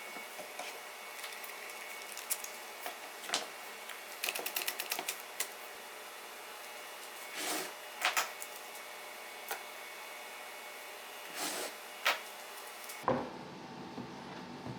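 Scattered light clicks and taps, with a quick run of rapid clicks about four seconds in and a few short swishes, over a steady hum; the background changes abruptly near the end.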